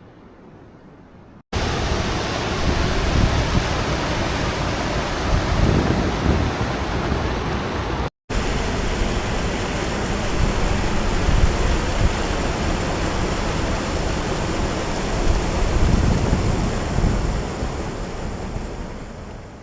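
Waterfall rushing: a loud, even wash of falling water in two shots, with a brief cut about eight seconds in. It fades away near the end.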